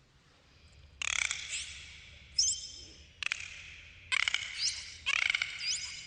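Dolphins calling: five bursts of buzzy pulsed calls from about a second in, with whistles gliding upward through them.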